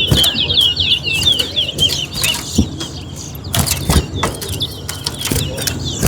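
Caged towa-towa finch singing a rapid warbling phrase of high, quickly repeated notes, which ends about a second and a half in, followed by fainter scattered notes and a few sharp clicks.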